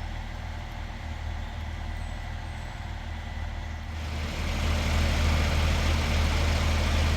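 Diesel engine idling steadily with a low, even hum, growing louder about four seconds in.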